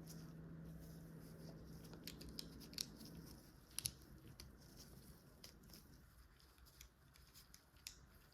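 Faint clicks and light handling of plastic LEGO pieces, with two sharper clicks a little under three and four seconds in, over a low hum that stops about three seconds in.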